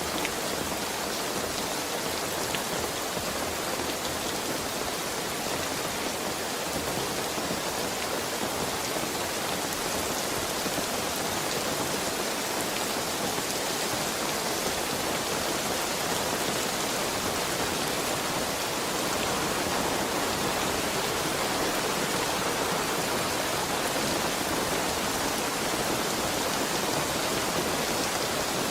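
Heavy rain falling steadily, a dense even hiss of drops on surfaces, a little louder from about two-thirds of the way through.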